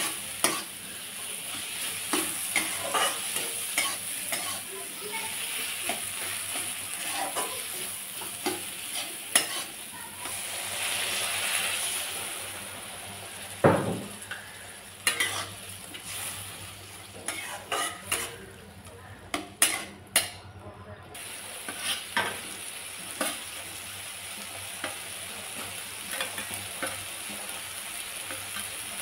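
Onion-tomato masala sizzling in a kadai while a spatula stirs it, scraping and clicking against the pan many times over a steady frying hiss. There is one louder thump about fourteen seconds in.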